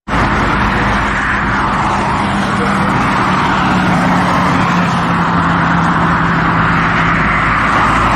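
Motorcycle engine running at a steady, even speed under heavy wind rush on the microphone, with no revving or gear changes.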